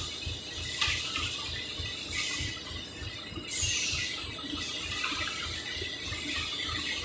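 Packaging-line machinery running with a fast low pulsing, broken by several sudden hisses of compressed air, the loudest about three and a half seconds in.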